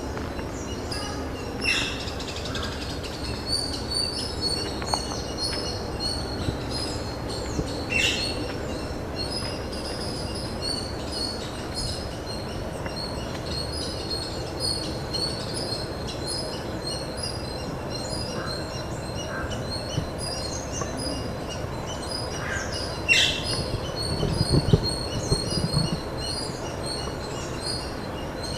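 Outdoor ambience of many birds chirping in quick repeated notes, with a few louder calls that drop in pitch, over a steady low rumble. A cluster of low thuds comes near the end.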